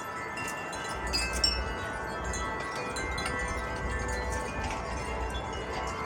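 Several wind chimes ringing together in a gust, their tubes struck again and again so that many lasting tones overlap. From about a second in, wind rumbles on the microphone underneath.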